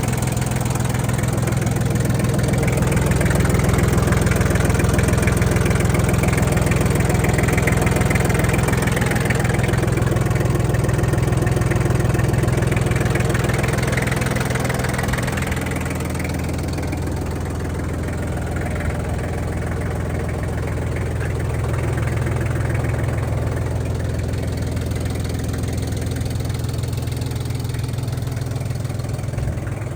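Iseki TL2301 compact tractor's three-cylinder diesel engine running steadily. It is a little louder through the first half and eases down slightly around the middle.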